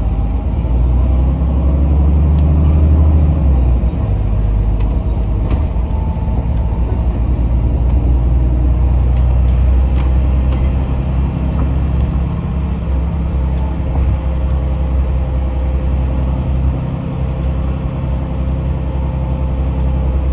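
Yutong ZK6128HG diesel city bus under way, heard inside the passenger cabin: a steady low engine and road rumble that swells and eases as the bus accelerates and slows.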